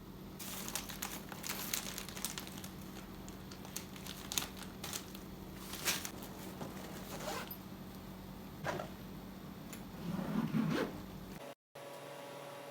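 Rustling, crinkling and clicking handling noises over a steady low hum. Near the end the sound cuts out suddenly and a different steady background with a faint tone takes over.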